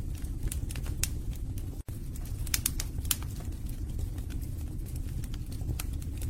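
Wood fire burning in a fireplace: a steady low rumble of flames with many sharp, irregular crackles and pops from the logs. The sound drops out for an instant about two seconds in.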